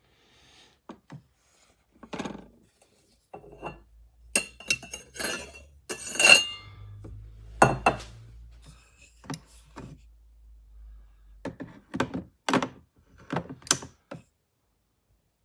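Knocks and clinks of hard parts, metal and crockery, being handled and set down, with a denser cluster about four to eight seconds in. A low steady hum sounds under them from about two seconds in until it stops near the twelve-second mark.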